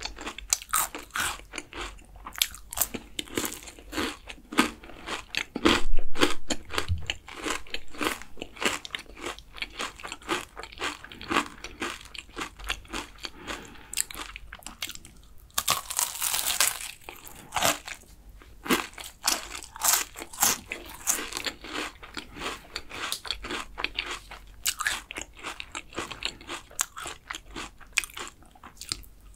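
Close-miked crunching and chewing of a crisp, caramelized kouign-amann pastry topped with cream: a quick, steady run of crackles, with a louder stretch of crunching a little past halfway.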